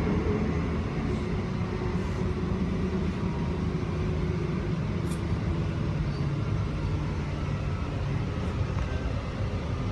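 Steady rumble of an electric commuter train running at speed, heard from inside the carriage, with a faint steady hum over it and a light tick about five seconds in.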